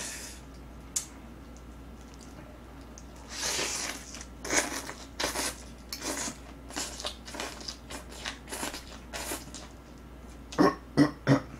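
Close-miked wet chewing and lip-smacking of boiled pork and green onion kimchi, a run of short smacks starting about three seconds in. Near the end come three sharp, louder knocks.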